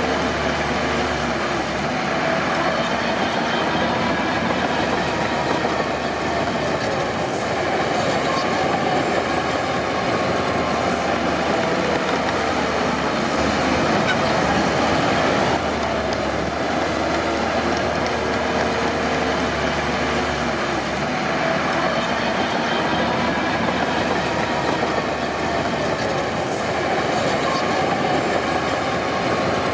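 Crawler bulldozer working: its diesel engine runs steadily under load, with metallic squealing and clanking from the steel tracks.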